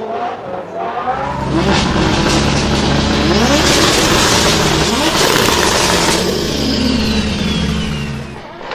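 Drift car's engine revving hard in repeated rising sweeps, with a dense hiss of tyre noise building to its loudest in the middle, then easing off near the end.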